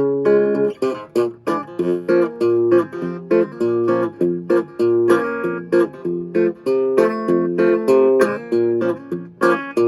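Vintage Silvertone hollowbody electric guitar strummed in a quick, steady rhythm of chords, with a short break just before the end.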